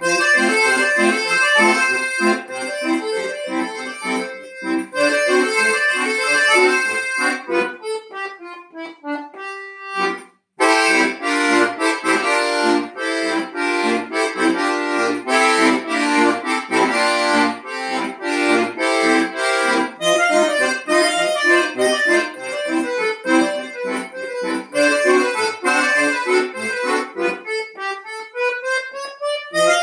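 Accordion playing a lively solo piece, a melody over bass-and-chord accompaniment. About ten seconds in it stops briefly, then comes back with loud, full repeated chords, and near the end a run climbs upward.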